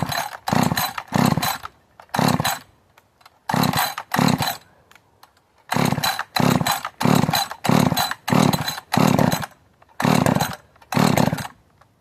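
Rebuilt, lightly ported Husqvarna 562 two-stroke chainsaw engine revved in about fifteen short throttle blips of about half a second each, dropping almost to nothing between them. It barely wants to run and won't hold a steady idle.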